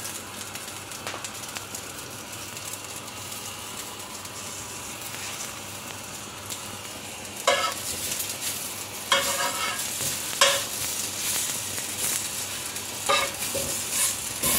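Breaded fish nuggets sizzling steadily in a non-stick wok fried without oil, only a splash of water. In the second half, a spatula scrapes and knocks against the pan several times as it turns the pieces.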